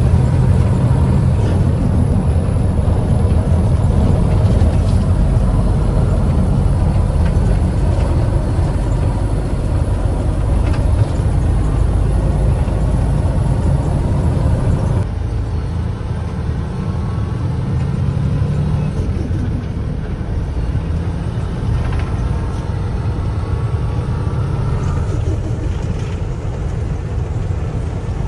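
Heavy truck engine running with a steady low rumble; the sound changes abruptly about halfway through, becoming a little quieter.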